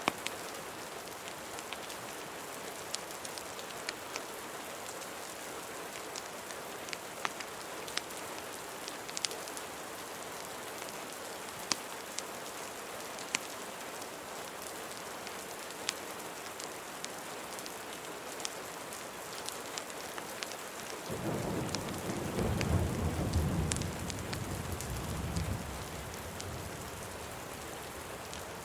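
Steady rain hiss with scattered sharp fireplace crackles. A low roll of thunder rumbles for about five seconds, starting about three quarters of the way through.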